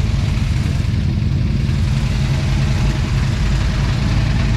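Car engine idling steadily, loud and low-pitched.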